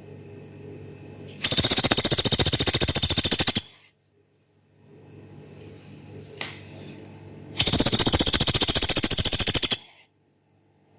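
Pelatuk beras, a small woodpecker, giving two long, harsh, high-pitched rattling calls, each a rapid run of evenly spaced notes lasting about two seconds, one near the start and one near the end, over a faint low hum.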